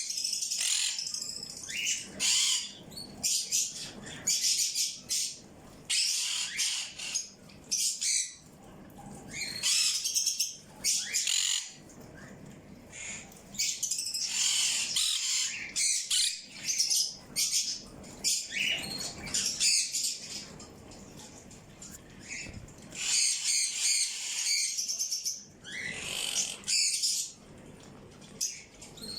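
Birds chirping and squawking: high-pitched calls coming in frequent bursts, often overlapping, with short pauses between.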